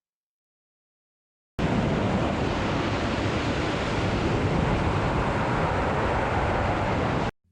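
Steady wind rush buffeting a camera microphone, as in skydiving freefall, cutting in abruptly after a second and a half of silence and cutting off suddenly near the end.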